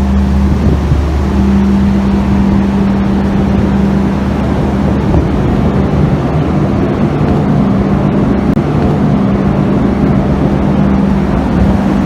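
Steady, loud drone of a docked cargo ship's running machinery: a constant low hum with an unchanging tone over a broad noisy rush.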